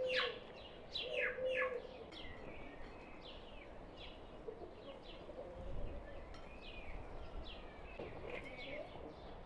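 Small birds chirping in quick, downward-sweeping notes, on and off throughout, with two short low calls in the first two seconds.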